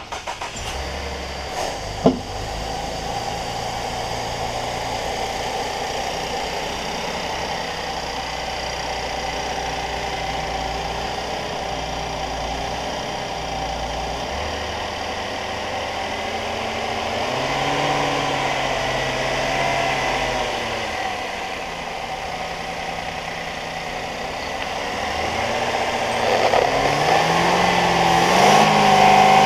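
2015 Cadillac SRX's 3.6-litre V6 running at a steady idle, then revved twice, the pitch rising and falling back each time, about halfway through and again near the end, the second rev higher.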